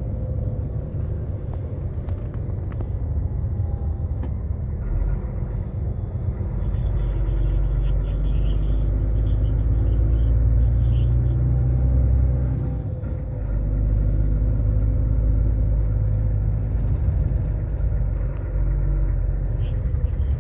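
Low, steady motor-vehicle rumble of engine and road noise, growing louder about five seconds in and dipping briefly around thirteen seconds.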